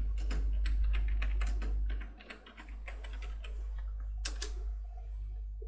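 Keys being typed on the SCP-294 coffee machine's keyboard, a quick run of clicking keystrokes that thins out after about two seconds, with one louder key press near the end. A steady low hum runs underneath.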